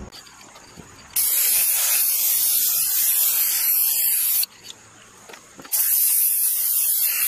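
Aerosol spray can of Krylon Fusion clear coat spraying a hiss in two bursts, the first about three seconds long and the second about a second and a half, each starting and stopping abruptly.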